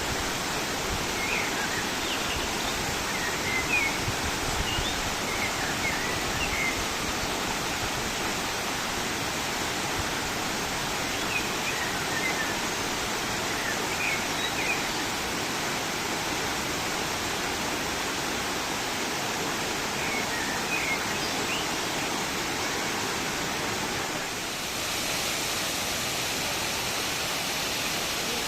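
Steady rushing roar of the Düden waterfall, with short high chirps heard in a few brief clusters over it. Near the end the rush dips for a moment and comes back brighter.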